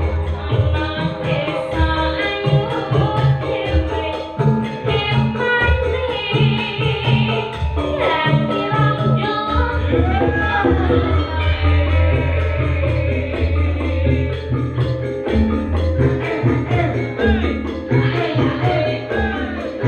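Live Javanese Sragenan-style band music: a steady beat of low drum strokes under melodic instruments, with a wavering sung line coming in at times.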